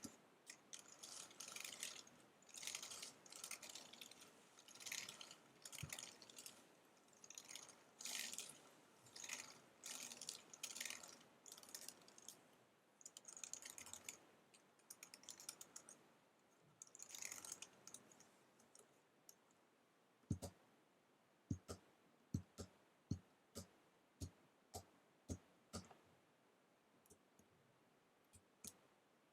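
Quiet fast typing on an Apple wireless keyboard: rapid flurries of key clicks, then, near the end, slower separate key presses about one or two a second, each a sharper click.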